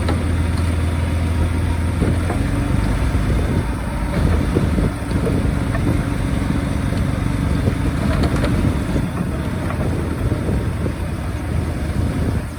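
Komatsu D31A bulldozer's diesel engine running under work, with scattered knocks and rattles. Its steady low note is strongest for about the first two seconds and then shifts.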